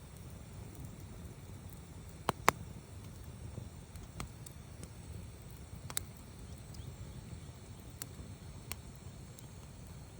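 Wood campfire burning, with a low steady rumble and a few sharp crackling pops of the burning wood, the loudest a close pair about two and a half seconds in.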